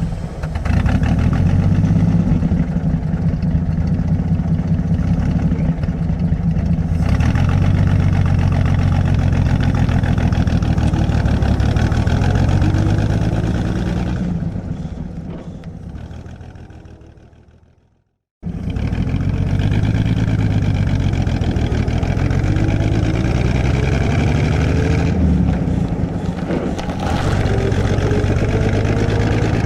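Interior recording of a 1937 Plymouth's flathead six-cylinder engine running just after starting and pulling away. The sound fades out about two-thirds of the way through. After a brief silence the engine runs again at a steady pace, its pitch rising and falling as the car drives and manoeuvres.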